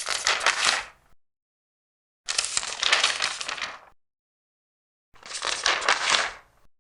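Three large paper pages turned one after another, each a crisp rustle lasting about a second to a second and a half, with dead silence between them.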